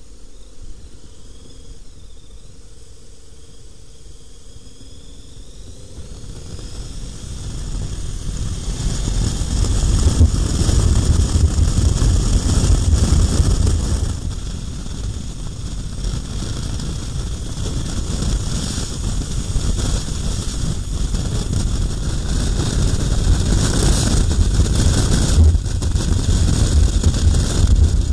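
KTM 1090 Adventure R motorcycle being ridden. The engine note rises over the first few seconds, then wind noise on the microphone builds from about six seconds in as the bike gathers speed and stays loud, dipping briefly near the middle.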